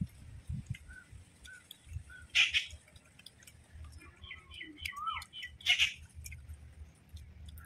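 Birds chirping, with a quick run of short notes near four seconds in and two short loud bursts about two and a half and six seconds in.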